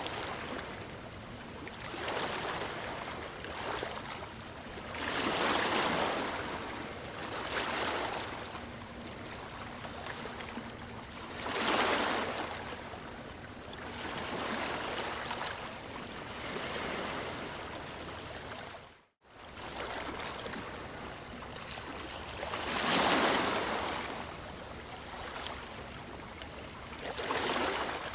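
Ocean waves breaking on a beach: a constant wash of surf that swells into a louder crash every few seconds. The sound cuts out for an instant about two-thirds of the way through.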